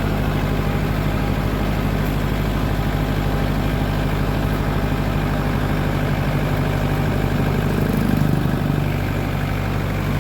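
Trailer truck engine running steadily, a low even drone, swelling slightly about eight seconds in.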